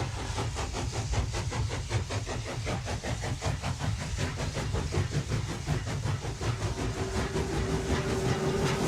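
Model train with an E444 locomotive running along the layout's track: a steady rumble with a fast run of clicks from the wheels on the rails. A steady whine comes in about seven seconds in.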